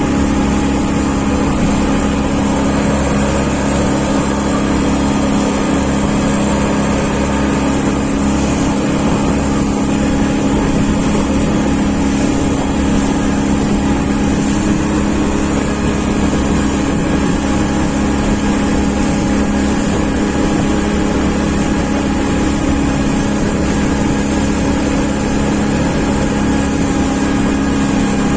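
Engine running steadily at a constant speed, a continuous hum with strong, unchanging low tones.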